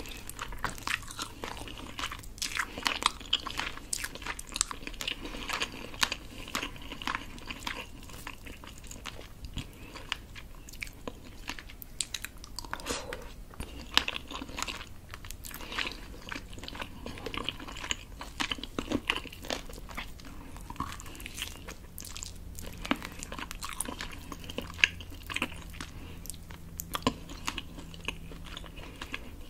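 Close-miked chewing and biting of rotisserie chicken meat, with many sharp wet mouth clicks.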